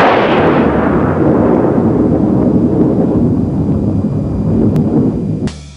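A loud boom followed by a long rumbling decay, like a thunder or explosion sound effect, fading over about five seconds. Drum hits begin just before the end.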